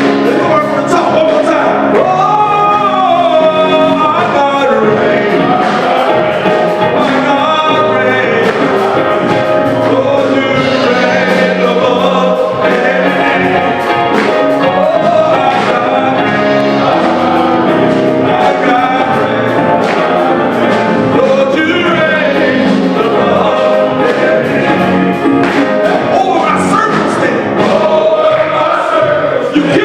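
Gospel music: voices singing over a band with a steady beat.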